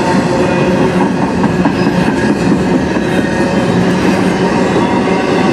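Double-stack intermodal freight train's container well cars rolling past close by: a loud, steady rumble of steel wheels on the rails.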